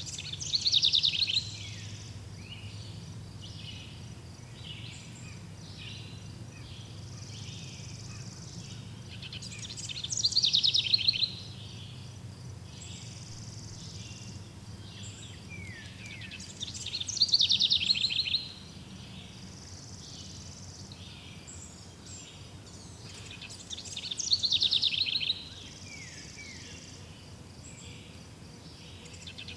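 Forest ambience with a songbird repeating a fast, falling trill about every seven seconds, four times. Softer bird chirps fall between the trills, over a steady low background rumble.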